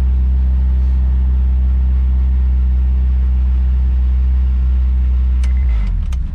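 Honda S2000's four-cylinder engine idling with a steady low drone. A few sharp clicks come near the end as the engine note shifts.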